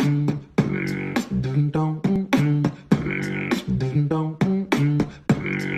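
Short looping musical sound effect: a voice-like melody of stepped notes over sharp percussive clicks, beatbox-style, repeating about every three seconds.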